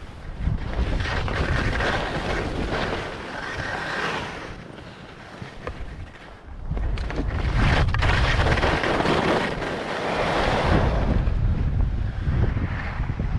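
Strong wind buffeting the microphone in gusts, a heavy rumbling rush with hiss over it. It eases off for a moment around 5 to 6 seconds in, then comes back louder.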